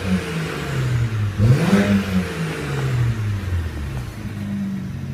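BMW 335i's warm 3.0-litre turbocharged straight-six being revved in neutral: the revs fall back from a blip, rise again in a second blip about a second and a half in, then drop back to a steady idle.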